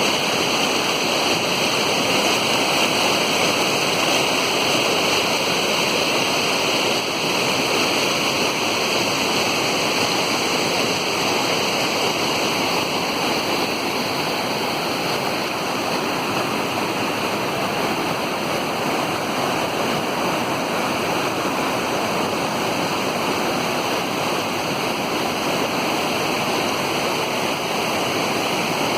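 A waterfall's water rushing in a steady, unbroken wash of noise.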